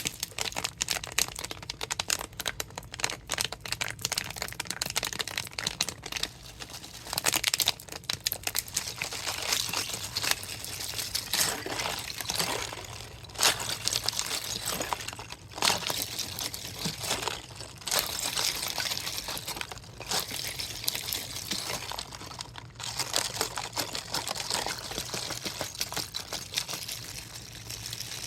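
Thin plastic water bottle, partly frozen, being squeezed and handled: continuous irregular crinkling and crackling of the plastic, with the water and ice inside sloshing and knocking.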